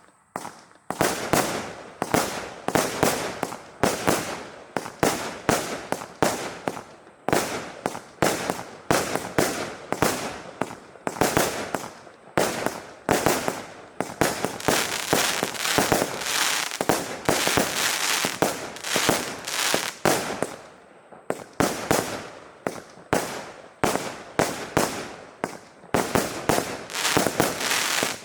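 Saturn missile firework battery firing a rapid volley of small missiles: a dense string of sharp pops and bangs, several a second. It starts about a second in and carries on with brief lulls.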